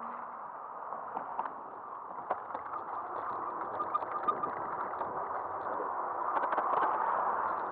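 Riding noise of an e-bike picked up by an action camera mounted on its front end: a steady rush of tyre and wind noise with scattered small clicks and rattles from the bike and mount, swelling slightly near the end.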